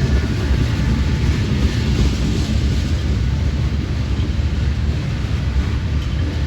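Freight train rolling past, a steady heavy rumble with no horn.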